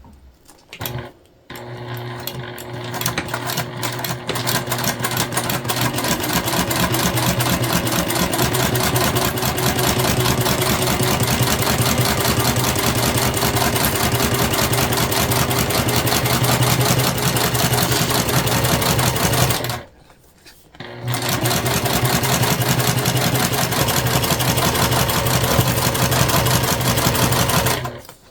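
Sewing machine stitching a zipper onto a jelly vinyl panel: it starts slowly and speeds up to a steady fast run of needle strokes, stops briefly about two-thirds of the way through, then runs again until near the end.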